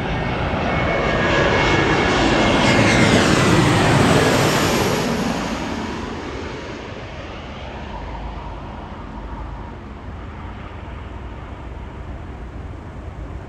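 Airplane flying past low: the engine noise swells to a peak about three to four seconds in, its pitch falling as it passes, then fades to a distant rumble.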